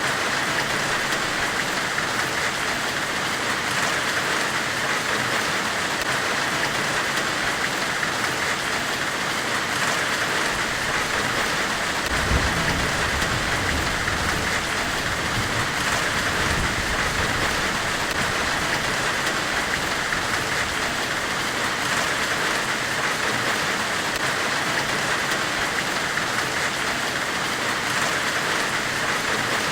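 Steady white-noise hiss, strongest in the upper middle range, like rain or a forge's hiss. A low rumble swells about twelve seconds in and fades over a few seconds.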